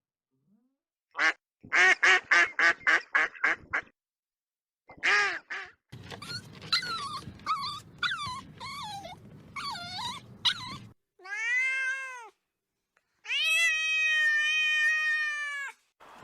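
A quick run of about nine short calls, then a cat meowing: a string of short bending mews, then two longer meows, the last held for nearly three seconds.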